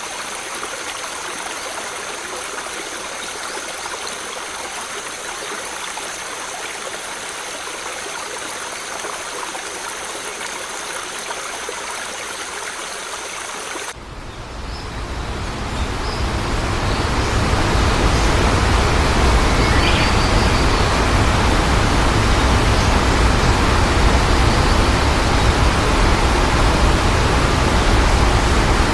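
Waterfall rushing water, a steady hiss. About halfway through it cuts to a louder, deeper rush that swells over a few seconds and then holds steady.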